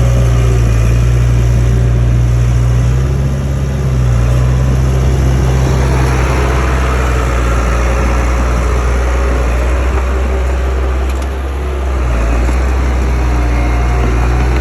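Komatsu D31A bulldozer's diesel engine running steadily at close range, with brief dips in load about three and a half seconds and eleven and a half seconds in.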